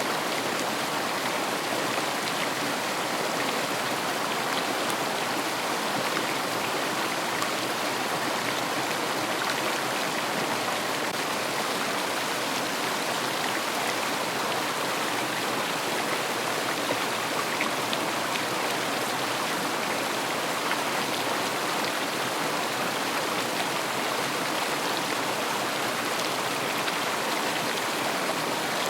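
River flowing: a steady rush of water with fine splashing throughout.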